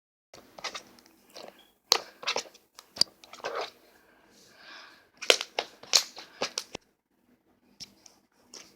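Slime being squeezed and pressed by hand, giving off irregular crunching and crackling pops, with a short pause near the end.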